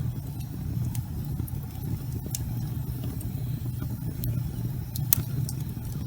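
Wood fire crackling in a fireplace: a steady low rumble of burning logs, with sharp pops and crackles scattered irregularly throughout, the loudest about five seconds in.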